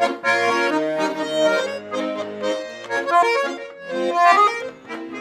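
Bayan, a Russian button accordion, playing an instrumental passage of a lively folk-style tune between sung verses: a melody over chords, in short rhythmic phrases.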